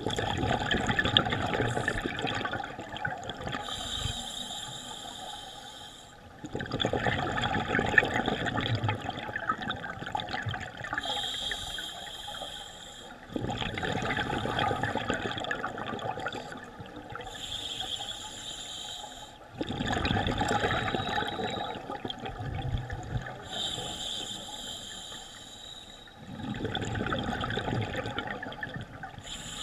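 Scuba diver breathing through a regulator underwater: a rush of exhaled bubbles five times, about every six and a half seconds, with a fainter, higher hiss from the regulator between each one.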